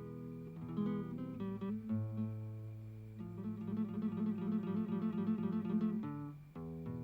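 Acoustic guitar music: plucked and strummed notes, with a run of quick repeated notes in the middle.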